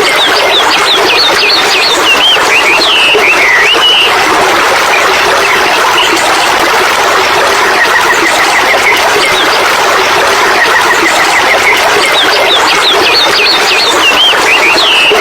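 A songbird singing two phrases about twelve seconds apart, each a quick run of even notes followed by a flurry of higher sliding notes, over a loud, steady hiss.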